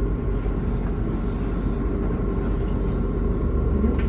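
Steady engine and road rumble inside a MAZ-216 articulated city bus, with a faint steady whine above it.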